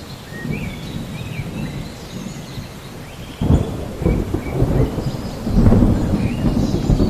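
Thunder rumbling, jumping sharply louder about halfway through and swelling again near the end. Faint short high chirps, like small birds, sound over it.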